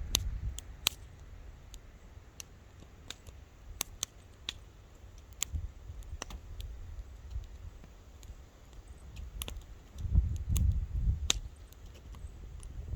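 Wood bonfire crackling, with irregular sharp pops and snaps. A low rumble swells briefly about ten seconds in.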